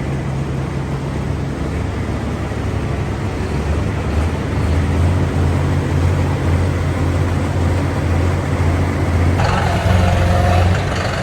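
A heavy vehicle engine running steadily at low speed, growing louder from about four seconds in.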